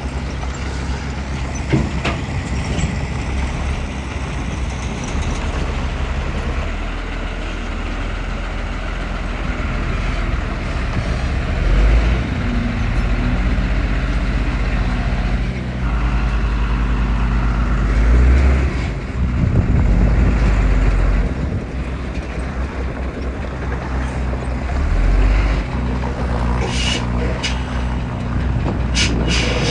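Heavy diesel earthmoving machinery running steadily, its engine swelling under load several times. A few short, sharp hisses or clanks come near the end.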